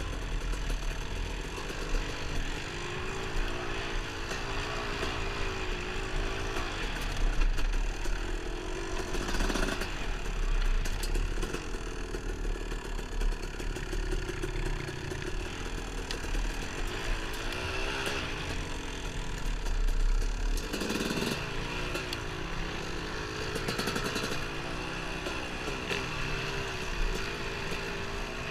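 Dirt bike engine riding a trail, its pitch rising and falling again and again with throttle and gear changes. Wind rumbles on the microphone underneath, easing off about two-thirds of the way in.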